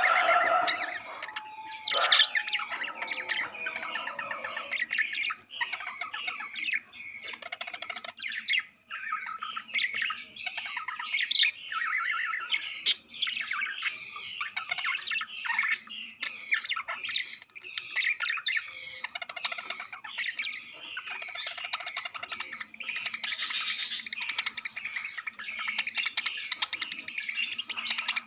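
A group of budgerigars chattering with continuous, overlapping quick chirps and squawks.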